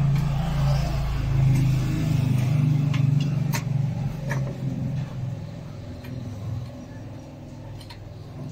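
A motor vehicle engine running steadily, loudest for the first few seconds and then fading, with a few light clicks over it.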